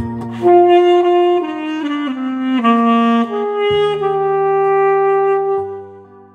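Instrumental music: a saxophone plays a slow, sustained melody line over a backing track with steady bass notes, holding one long note in the second half before the phrase fades.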